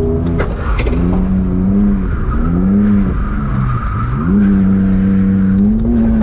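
BMW E46 engine revving: the revs climb and drop back a few times, then are held steady for the last couple of seconds.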